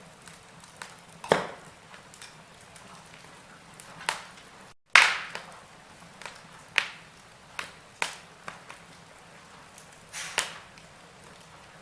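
Wood fire crackling, with sharp pops every second or two over a faint hiss. The sound cuts out for an instant just before the loudest pop near the middle.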